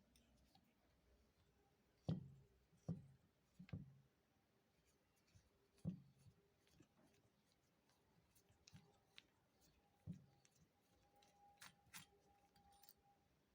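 Near silence with a few faint, sharp knocks and clicks, spaced irregularly, and a faint steady tone near the end.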